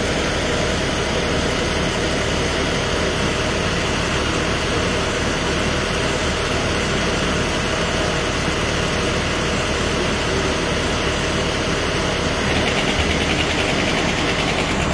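Heavy vehicle engine idling steadily, a constant low drone. A higher hiss joins near the end.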